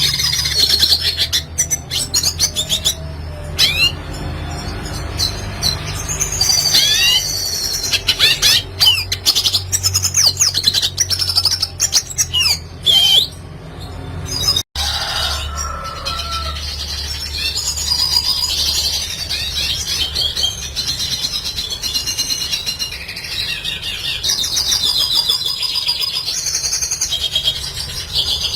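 Red siskin singing: a fast, continuous twittering song of chirps, trills and rising and falling whistled sweeps, over a steady low hum. The song breaks off for an instant about halfway through, then carries on.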